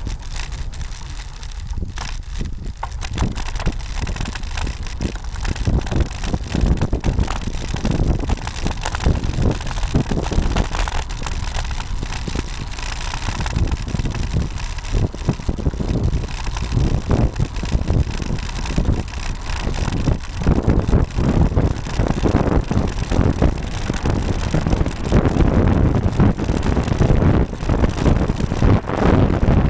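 Wind rushing over the microphone of a bike-mounted camera on a moving road bicycle, with many short knocks and rattles as the bike jolts over the road surface.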